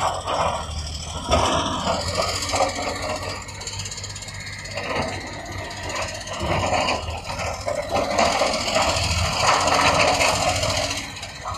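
Heavy construction machinery's engine running steadily, with rough noise that swells and fades irregularly over it.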